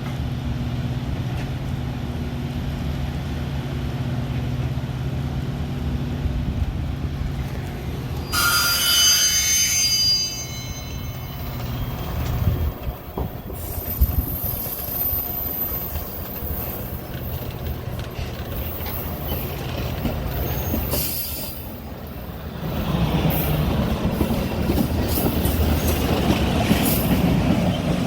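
Metra commuter train: a steady low hum, then a shrill squeal of several high tones lasting about two seconds, about eight seconds in. From about 23 seconds in, louder rolling wheel noise with squealing.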